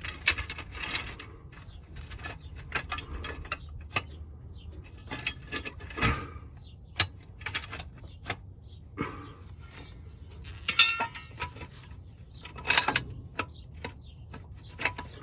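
Metal jack stands being positioned and adjusted under a truck: irregular metallic clanks, knocks and ratchet-like clicks, some in quick clusters.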